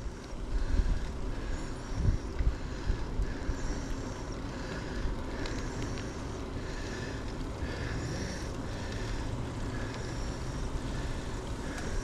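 Wind buffeting a chest-mounted action-camera microphone and bicycle road rumble while riding, with a faint higher-pitched sound repeating about once a second.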